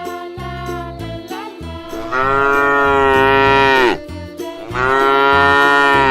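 Children's background music with a bouncy bass line, over which two long cow moos sound, about two seconds in and again near the end; the first one drops in pitch as it ends.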